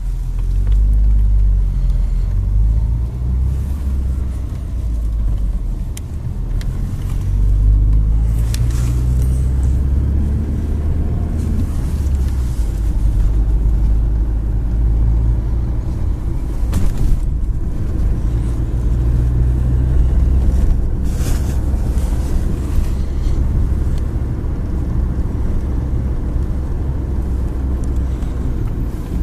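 Car engine and road rumble heard from inside the moving car, with the engine note rising and falling as it speeds up and slows down, and a few brief clicks.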